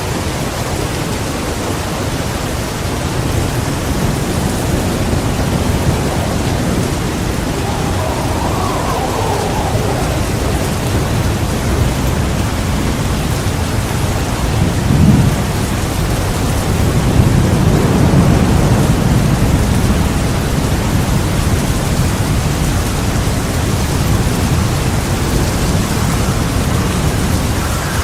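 Heavy rain falling steadily, with a sharp thunderclap about halfway through followed by a few seconds of rolling thunder rumble.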